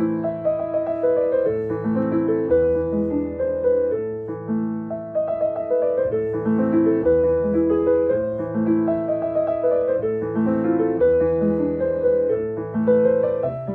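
Piano music: a slow, gentle piece of sustained chords and a melody over a deep bass note struck again about every two and a half seconds.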